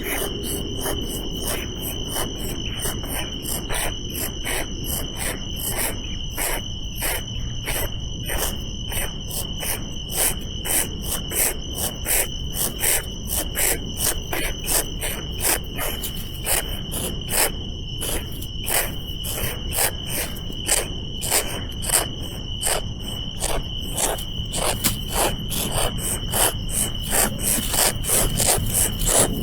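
Insects droning steadily at a high pitch, with many short sharp chirps or clicks, two or three a second, over the top.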